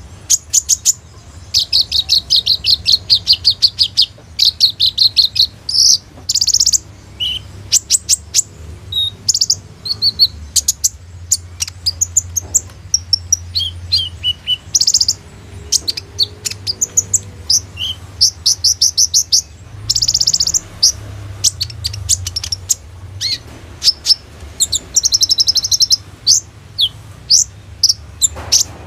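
A kolibri ninja (brown-throated sunbird) singing a long, varied song of rapid, high-pitched trills and chirps, mixed with imitated phrases of other birds, over a steady low hum.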